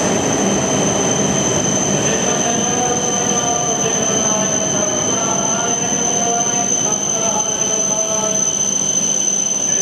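Tohoku Shinkansen train moving along a station platform: a continuous rumble of running noise with a steady high-pitched whine and a wavering squeal from the wheels.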